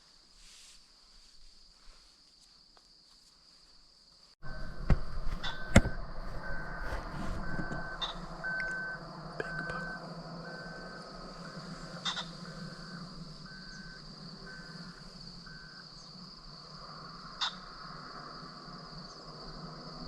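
Near quiet, then about four seconds in a sudden switch to a series of short, evenly repeated electronic beeps, all at one pitch, with a few sharp knocks near their start and a steady high tone underneath. The beeps stop a few seconds before the end.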